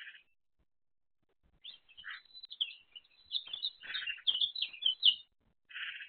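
A small bird chirping and twittering: a short harsh call at the start, then about a second and a half in a quick run of high chirps lasting some three and a half seconds that grows louder near its end, and another short harsh call at the very end.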